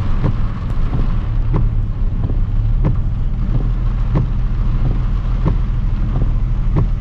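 Pickup truck engine running at low speed, heard from inside the cab, with a flasher relay ticking steadily about three times every two seconds.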